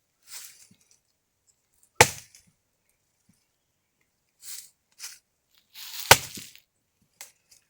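Axe chopping wood: two sharp blows about four seconds apart, the second the loudest, with faint rustling between them.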